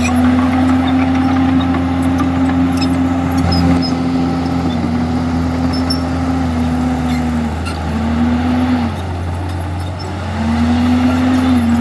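Komatsu D51EX bulldozer's diesel engine running under load. Its note dips briefly a few times, sags lower about eight seconds in, drops back for a moment and then picks up again near the end.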